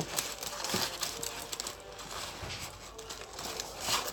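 Close-up eating sounds: a mouth chewing food, with irregular wet clicks and crackles, the loudest crackle near the end.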